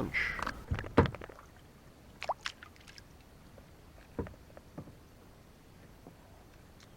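Kayak paddle strokes on calm water: a sharp knock about a second in, then a few scattered light splashes and plops from the paddle.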